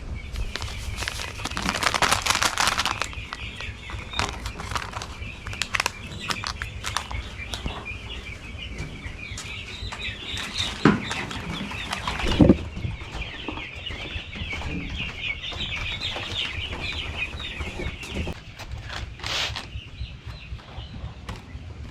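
A crowd of six-day-old broiler chicks peeping continuously in a dense, high chorus, with rustling and wing flapping loudest about two seconds in and two sharp knocks around the middle.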